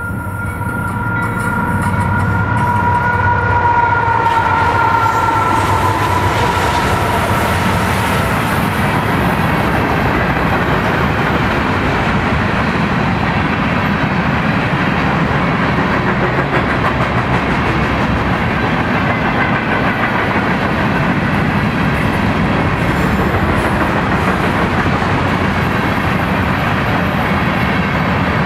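BNSF diesel freight train passing close by: a two-tone locomotive horn sounds for the first six seconds or so as the noise builds, then the locomotives and a long string of covered hopper cars roll past with steady wheel and rail noise.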